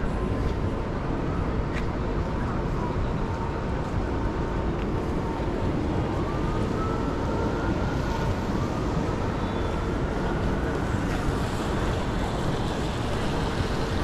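Steady rumbling vehicle noise, with a faint whine that rises in pitch twice in the middle.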